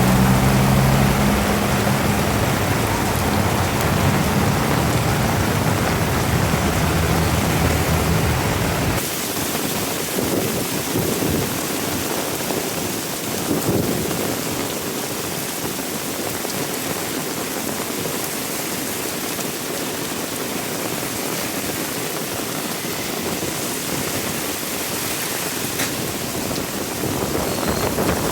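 Heavy rain falling steadily. For the first nine seconds a steady low motor hum runs underneath, then it stops abruptly and only the rain is left.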